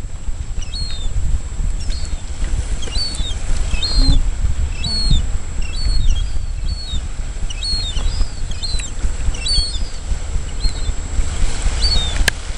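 Short, high bird chirps repeating about once or twice a second over a steady low rumble, with two sharp clicks near the end.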